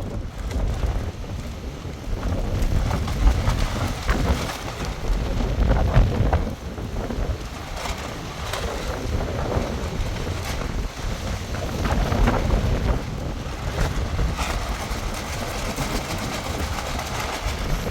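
Strong gusting wind in a storm, buffeting the microphone with a heavy low rumble that rises and falls.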